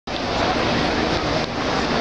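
A truck's engine running loud and steady, with dense rushing noise on top.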